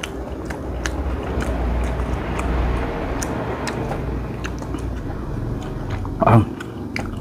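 Close mouth sounds of chewing goat meat, with wet smacks and small clicks, over a low rumble that fades after the first few seconds. A short louder sound comes about six seconds in.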